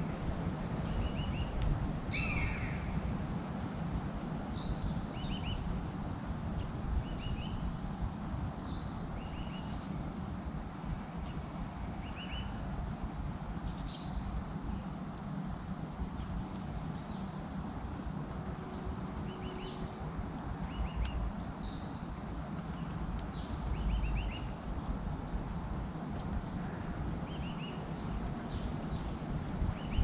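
Small birds calling with many short chirps and twitters scattered throughout, over a steady low background noise.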